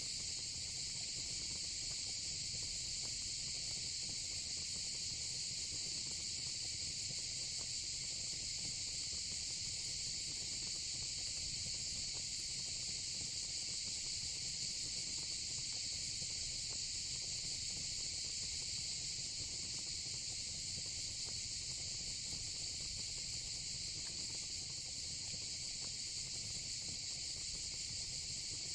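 Steady insect chorus of crickets and cicadas, a dense, even, high-pitched trill that does not let up.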